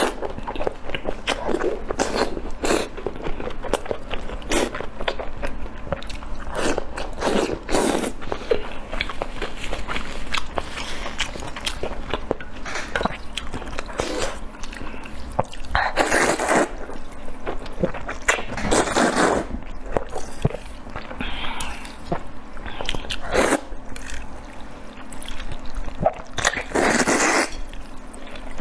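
Close-miked eating sounds: biting and chewing food, with many short wet clicks and smacks throughout and a few longer, louder mouth sounds in the second half.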